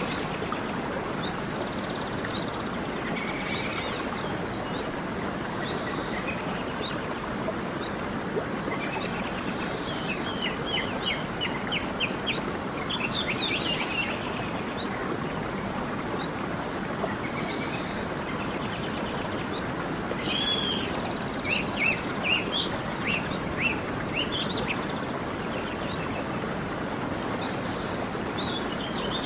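A stream running steadily with birds chirping over it. The birds give scattered short calls, with quick runs of rapid chirps about ten seconds in and again past the middle.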